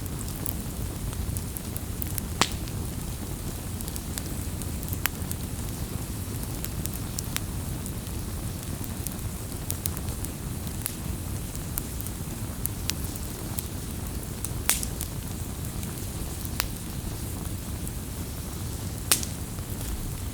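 Wood campfire burning: a steady low rush of flame with scattered sharp crackles and pops, the loudest about 2.5, 5, 14.5 and 19 seconds in.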